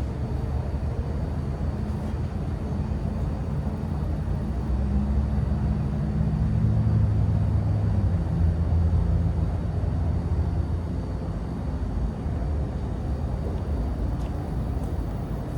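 Low engine rumble with a steady hum, swelling over the middle of the stretch and easing off again.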